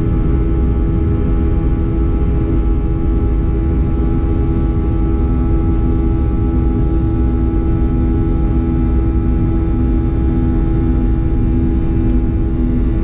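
Boeing 737-800 cabin noise: the CFM56 jet engines and the rush of air make a steady drone with a few constant hums over a deep rumble.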